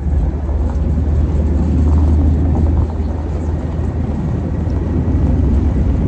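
Airliner cabin noise: a steady, loud, deep rumble from the jet engines and airflow with a hiss over it, heard from inside the cabin.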